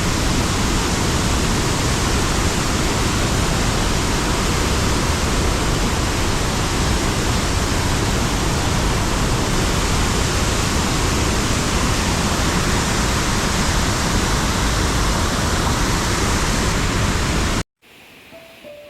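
Hogenakkal Falls on the Kaveri River, heavy water pouring and crashing in a loud, steady rush. It cuts off suddenly near the end, and quiet background music begins.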